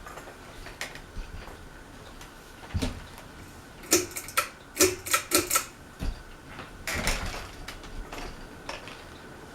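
Harbor Breeze Armitage 52-inch five-blade ceiling fan running on high with a steady low whir. Irregular sharp clicks and taps sound over it, with a quick run of them around the middle.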